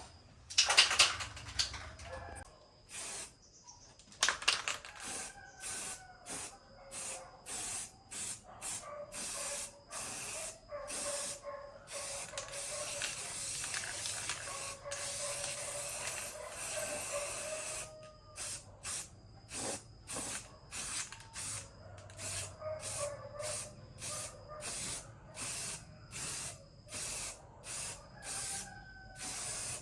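Short, repeated bursts of hissing spray from a pressurised nozzle, mostly about two a second, with one longer unbroken spray in the middle.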